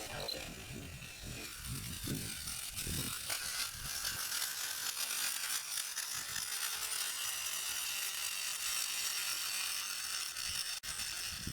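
Evel Knievel Stunt Cycle toy's launcher and flywheel-driven rear wheel whirring with a steady high buzz, with low knocks in the first few seconds and one sharp click near the end.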